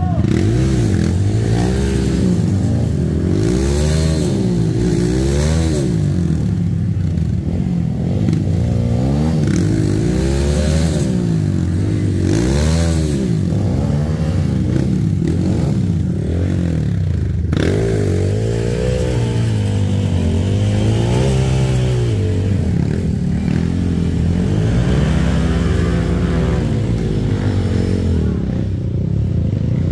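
Yamaha WR155 single-cylinder dirt bike engine revving up and down again and again as it is ridden off-road, the throttle opened and closed every second or two.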